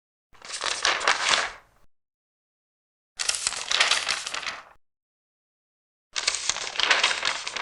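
Large paper pages being turned three times, about three seconds apart, each turn a crackling paper rustle lasting about a second and a half.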